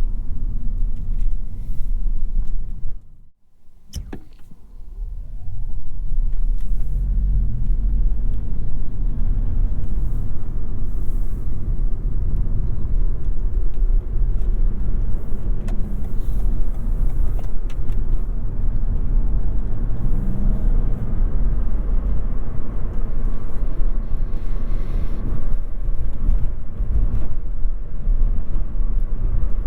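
Toyota Yaris 1.5 Hybrid being driven: a steady low rumble of road and drivetrain noise. The sound drops away almost completely for a moment about three seconds in, then returns.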